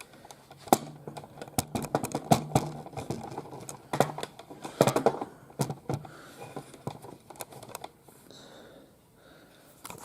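Hard plastic toys being handled: irregular clicks and knocks, thinning out after about seven seconds.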